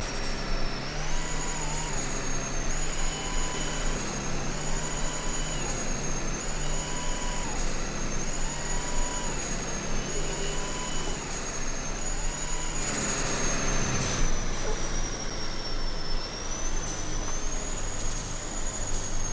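Truck driving along the road, with steady engine and road noise and a thin high whine that steps up and down in pitch every second or two.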